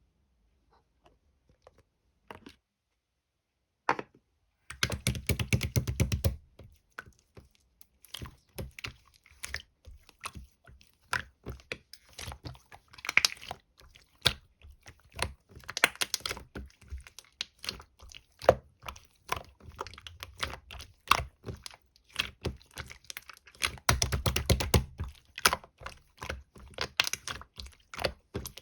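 Soft-serve ice cream slime being squished and pressed, giving rapid irregular wet clicks and crackles. It starts about four seconds in, with thicker squishing bursts about five seconds in and again near the end.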